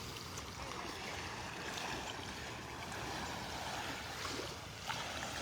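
Small Gulf waves washing steadily on the shoreline, with a few faint clicks near the end.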